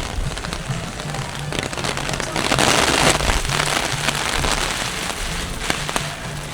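Heavy typhoon rain falling and splashing, with many sharp drop hits, swelling louder for a moment about midway. Under it, background music with a low note repeating in short even steps.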